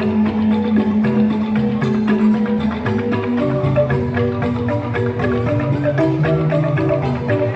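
Joged bumbung bamboo gamelan playing: bamboo xylophones struck with mallets in fast, dense rhythmic patterns over a steady pulse.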